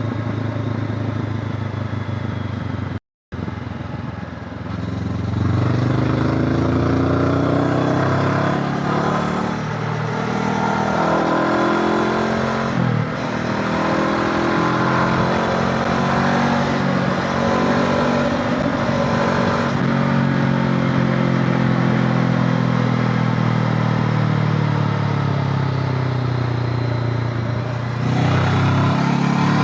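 Honda CB500X's parallel-twin engine running under way, its pitch climbing and falling with the throttle and holding steady for long stretches. The sound cuts out for a moment about three seconds in.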